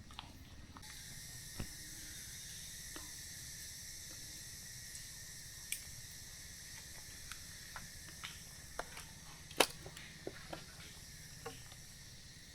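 A faint, steady, high-pitched chorus of insects in a mangrove forest, with scattered short clicks and ticks, the sharpest about ten seconds in.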